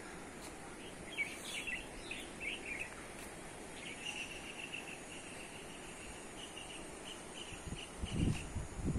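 Small birds chirping: a few quick chirps, then a long, fast trill at a steady pitch, over a steady outdoor background hiss. A few low rumbles come near the end.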